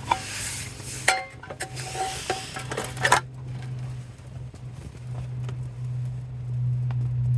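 Metal utensils clinking and clattering against a cooking pan for the first three seconds, then a steady low hum that grows louder and cuts off suddenly at the end.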